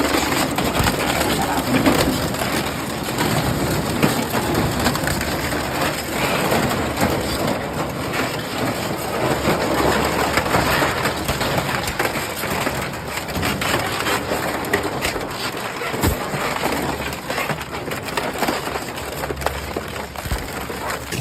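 Industrial shredder crushing and tearing scrap metal: a dense, continuous crunching full of sharp cracks and bangs.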